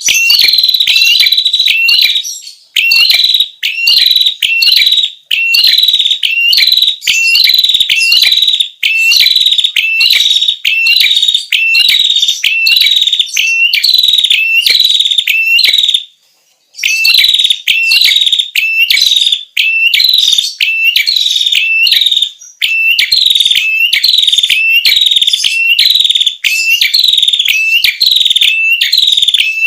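Prenjak kepala merah (a small Indonesian warbler-type songbird) call used as a lure: a loud, fast, unbroken string of high, sharp chirps with a quick upward hook, about two a second, broken by one short pause about sixteen seconds in.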